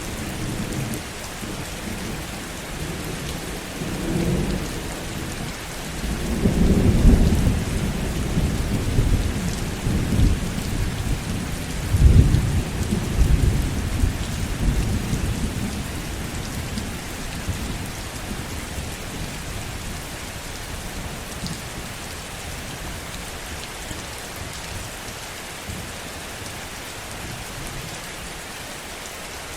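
Steady heavy rain with rolling thunder: low rumbles swell a few seconds in and peak twice, around a quarter and two fifths of the way through, then die away, leaving only the hiss of the rain.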